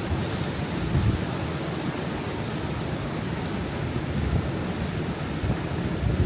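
Wind buffeting the microphone, with a steady rushing wash of water underneath; the low flutter comes and goes in small gusts.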